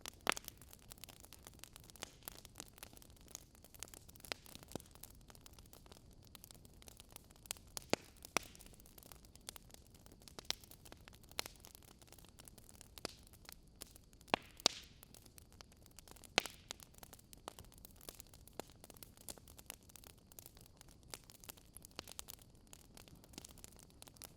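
Wood fire crackling: irregular sharp pops and snaps, a few of them louder, over a soft steady hiss.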